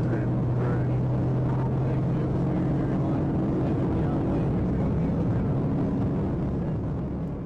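Police patrol car driving at highway speed during a pursuit: steady engine and road noise with a low hum, easing off slightly near the end.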